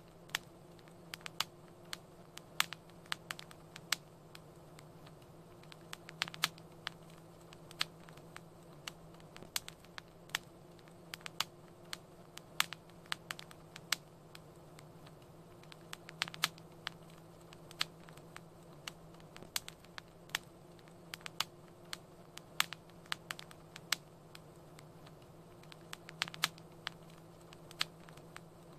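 Wood fire crackling in a fireplace: irregular sharp pops and snaps, several a second, over a steady faint low hum.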